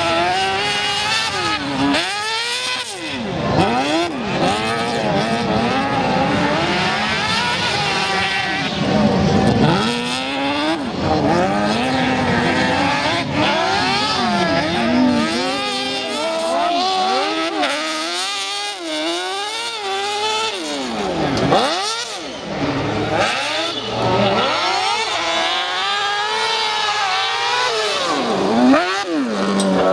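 Off-road racing buggy with a Yamaha R6 inline-four motorcycle engine, running loud and revving high, its pitch rising and falling over and over as it is driven.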